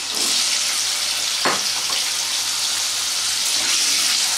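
Cut potatoes sizzling in hot oil in a kadai as they go in and are stirred with a metal spatula. The sizzle swells right at the start as the pieces hit the oil, and there is a single knock about a second and a half in.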